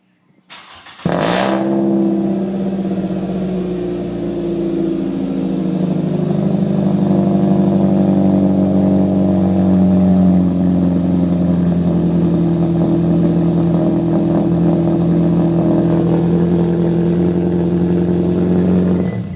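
2011 Scion xB's 2.4-litre four-cylinder engine, breathing through a Shurp exhaust with the mid muffler deleted and a straight pipe, starting with a sharp flare about a second in, then idling steadily and loudly before cutting off near the end.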